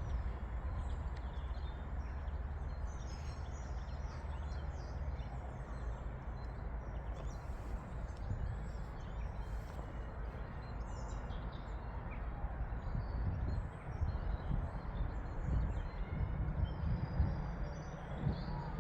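Small birds chirping and twittering in many short calls over a steady low rumble.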